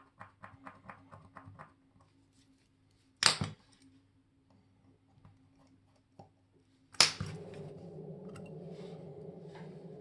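Small metal clicks and knocks from handling a watch movement and tools at a workbench: a quick run of light ticks, a sharp click about three seconds in, and a louder knock about seven seconds in, followed by a steady hum.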